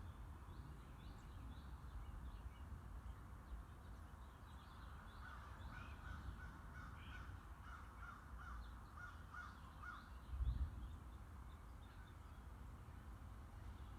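A bird calls a run of about ten short, harsh notes, roughly two a second, through the middle. Fainter high chirps from smaller birds sit over a steady low outdoor rumble, with a brief low thump shortly after the calls end.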